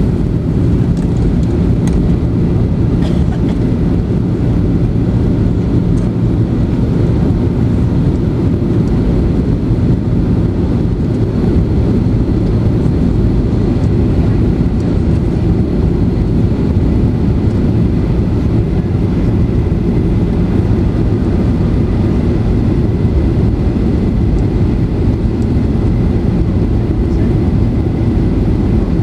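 Steady cabin noise inside a Boeing 737-800 on approach: a constant low rumble of its CFM56 jet engines and airflow over the fuselage.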